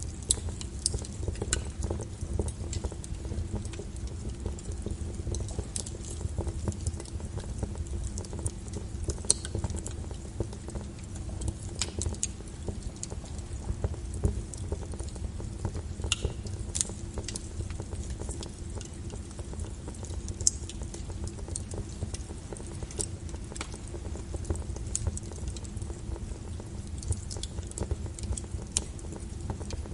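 Wood fire burning in a fireplace: a steady low rumble with irregular crackles and sharp pops from the burning logs.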